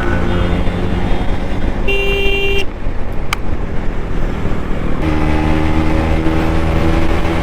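Single-cylinder engine of a KTM RC 200 motorcycle running steadily while riding, with a short horn toot about two seconds in.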